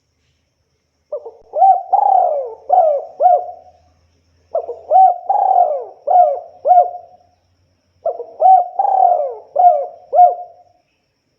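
Spotted dove cooing: three phrases of about five notes each, one every three and a half seconds, with quiet gaps between them.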